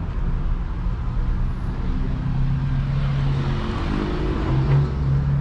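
A motor vehicle's engine runs close by as a steady low hum, with its pitch shifting about three to four seconds in as the car moves along the street.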